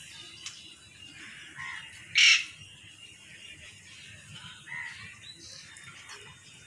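Harsh bird calls: one loud, short call about two seconds in, with a few faint calls around it.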